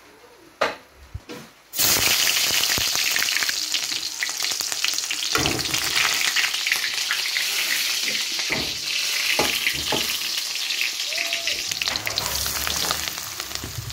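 Hot oil sizzling in a steel pot on a gas stove, a loud, even hiss that begins abruptly about two seconds in and eases off near the end. A few knocks and clicks, typical of a spoon against the pot, sound through it.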